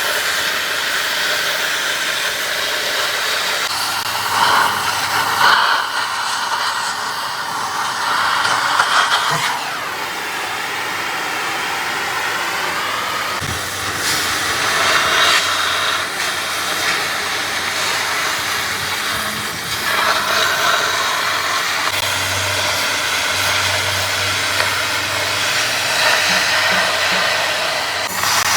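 Steady loud hiss that swells and eases every few seconds, with a faint low hum at times.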